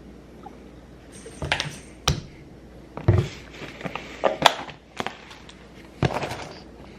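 Kitchen handling noises: a handful of sharp clicks and knocks with short rustles in between, spread over several seconds, as items are picked up and set down.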